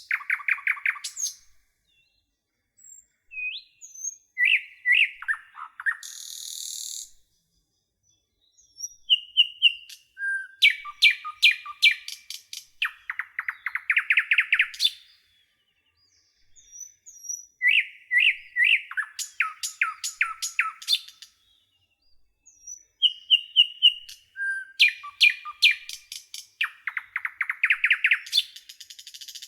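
Common nightingale singing in varied phrases of whistled repeated notes and rapid trills, broken by short pauses. Twice a phrase swells into a loud buzzy rising trill.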